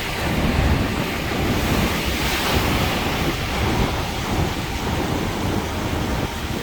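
Wind buffeting the microphone over the steady wash of sea surf, with a gusty low rumble.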